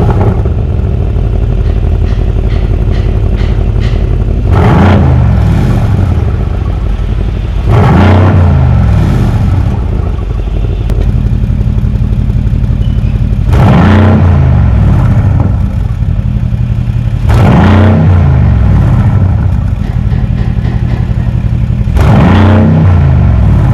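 Mercedes-AMG C63S twin-turbo V8 running through an AWE Performance cat-back exhaust. Over a steady drone the engine revs up and drops back five times.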